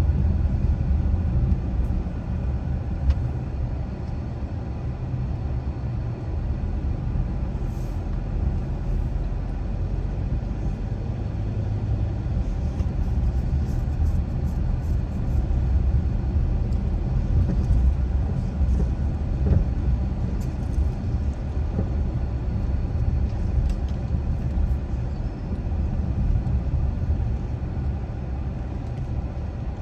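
Car driving at steady speed: a continuous low rumble of road and engine noise, with a few faint ticks in the middle.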